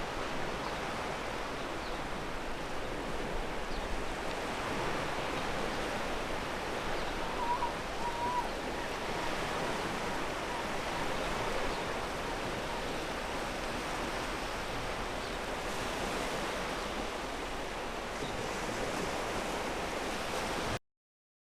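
Ocean surf washing steadily onto a pebble beach; it cuts off suddenly near the end.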